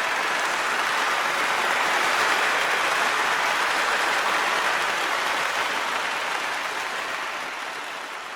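Applause: a dense, steady clapping that slowly fades out toward the end.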